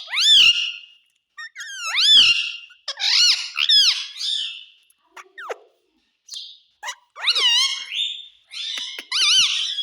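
A pet parrot calling in about five bursts of high calls that swoop up and down in pitch, with a short lull in the middle.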